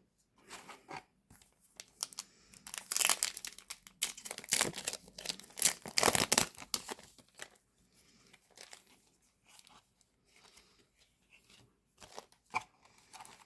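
Yu-Gi-Oh! foil booster pack wrapper being torn open and crinkled, with irregular rustling bursts that are loudest around the middle, then quieter rustles of the wrapper and cards being handled.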